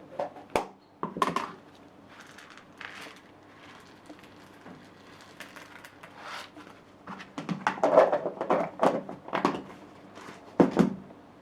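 Birdseed rustling and rattling as it is poured into a hollowed-out orange half, in scattered bursts, busiest about eight to eleven seconds in.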